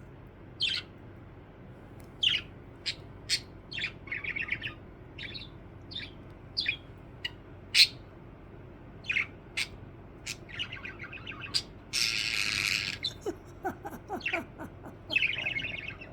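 Budgerigar calling: a string of short, sharp chirps with some quick chattering runs, and about three quarters of the way through one harsh, raspy squawk lasting about a second.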